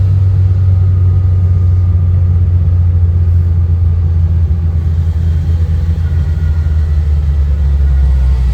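Classic Ferrari's engine running while the car drives, a deep steady drone whose pitch sinks slowly over the last few seconds.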